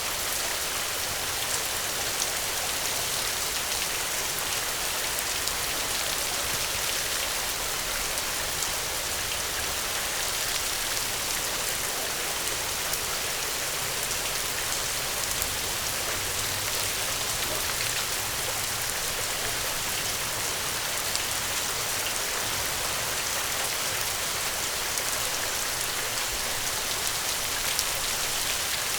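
Steady rain falling, an even hiss with many small scattered ticks of drops.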